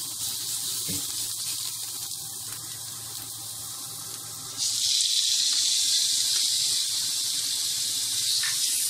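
Sliced onions sizzling in hot oil in a frying pan. About halfway through, raw peeled small shrimp are tipped in and the sizzle suddenly gets louder and stays louder.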